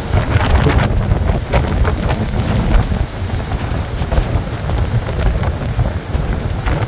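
Blizzard wind gusting hard against the microphone, a heavy, buffeting rumble with scattered sharp crackles.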